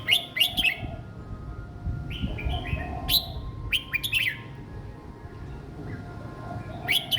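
A young red-whiskered bulbul singing short, simple song phrases: four bursts of quick sweeping notes a second or two apart, over a low background rumble.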